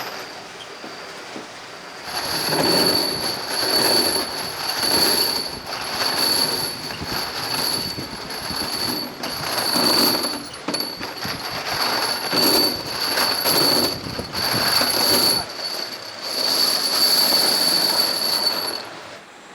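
A metalworking machine cutting mild steel, with a steady high-pitched squeal of metal over a rough grinding noise that swells and eases about once a second. It starts about two seconds in and stops near the end.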